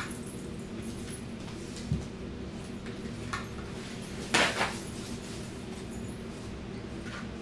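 Eating at a table: a few scattered clacks and knocks of utensils and dishes being handled, the loudest a short rattle about four and a half seconds in, over a steady low hum.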